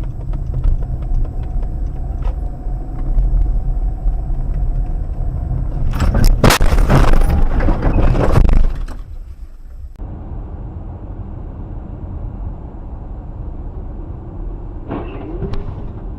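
Car driving with steady road and engine rumble, then about six seconds in a loud collision lasting a few seconds, followed by more car driving noise.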